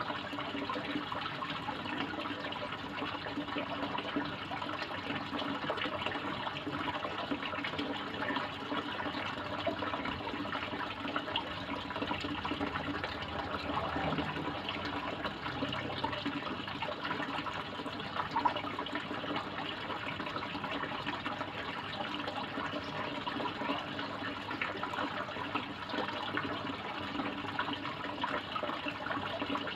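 Koi pond water splashing and running steadily, an even rushing sound without pause.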